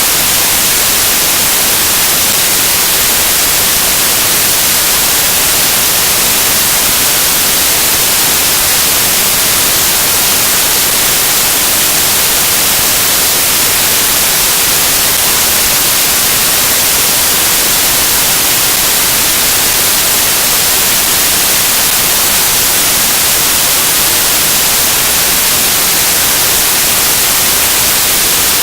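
Loud, steady static hiss, an even white noise with nothing else heard over it.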